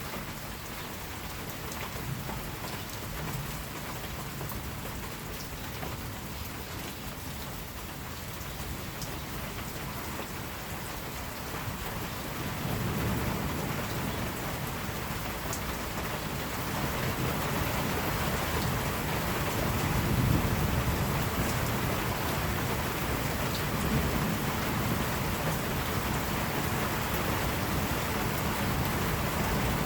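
Steady heavy rain falling on a surface, with the low rumble of distant thunder swelling in about halfway through and peaking a few seconds later.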